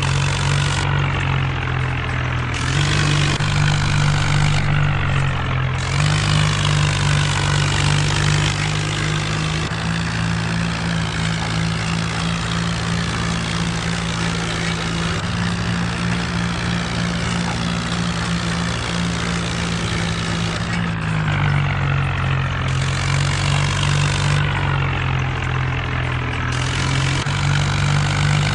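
Mahindra Arjun tractor's diesel engine running steadily, its note dipping and rising slightly a few times.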